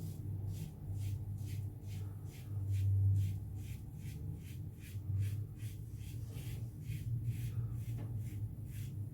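Gillette Black Beauty adjustable safety razor with a Derby Premium blade scraping through lathered stubble in short, quick strokes, about three a second, over a steady low hum.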